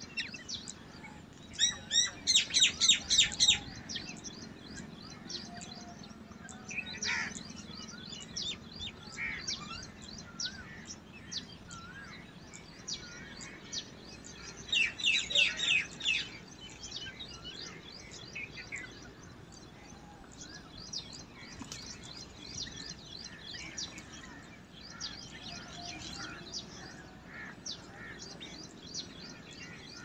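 Birds chirping, with two loud runs of quick repeated notes, one about two seconds in and one near the middle, over many scattered softer chirps.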